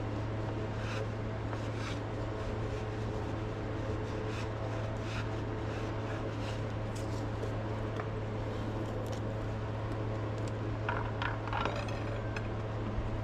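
Scattered light clicks and scrapes of hand tools on metal bus parts, with a cluster of scraping clicks about eleven seconds in, over a steady low hum.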